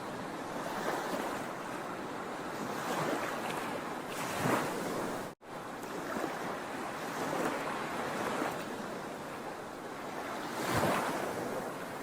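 Ocean waves breaking and washing on the shore, a steady surf with a louder surge every few seconds; the strongest surges come a little before halfway and near the end. About halfway through the sound cuts out completely for a split second.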